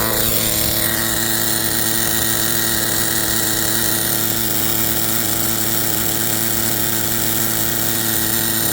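A small RC car engine running steadily at a high, even pitch. Its note shifts down about a second in, then holds.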